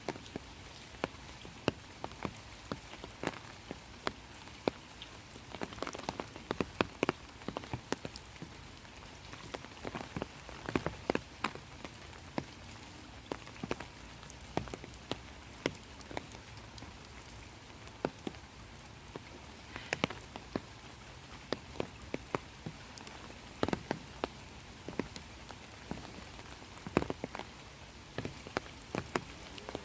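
Rain falling, a steady hiss with many irregular close drop strikes scattered through it.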